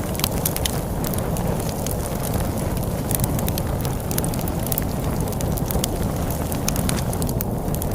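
Wood fire crackling with frequent irregular sharp pops, over a steady low rushing rumble of storm wind.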